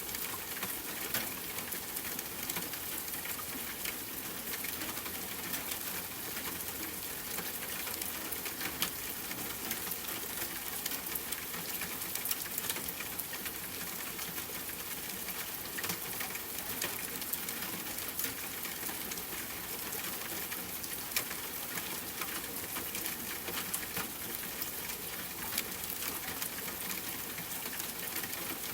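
Steady rain hiss mixed with a campfire crackling, with frequent irregular sharp pops and snaps over the rain.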